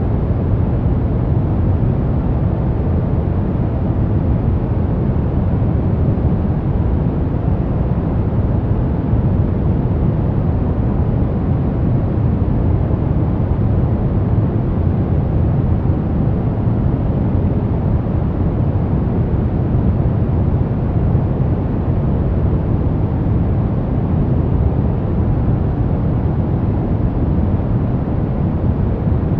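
Continuous white-noise track for baby sleep, a smooth unbroken steady noise that is deep and muffled rather than hissy, with most of its weight in the bass.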